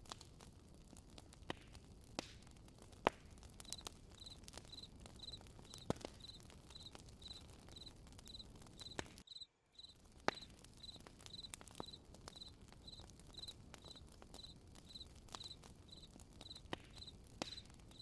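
Campfire crackling with irregular sharp pops. A cricket chirps steadily about twice a second from about four seconds in. All sound cuts out for a moment about halfway through.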